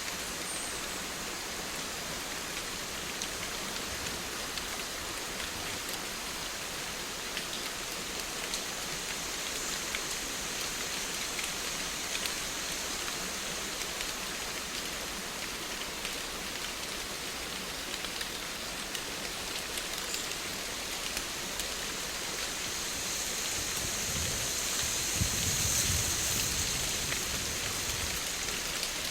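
Steady rain with many fine drops pattering, swelling louder for a few seconds near the end with a low rumble underneath.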